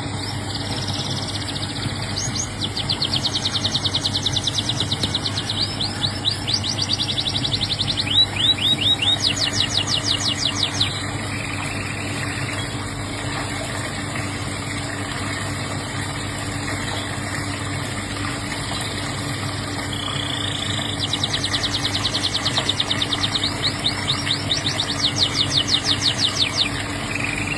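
Domestic canary singing in long, fast trills of rapidly repeated notes, in two bouts separated by a pause of several seconds, over a steady low hum.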